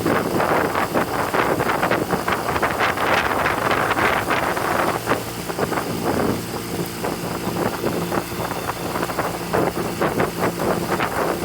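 Motorboat engine running steadily under way, with water splashing against the hull and wind buffeting the microphone.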